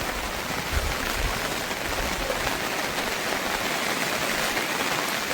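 Steady rain falling on surfaces, an even hiss with no breaks.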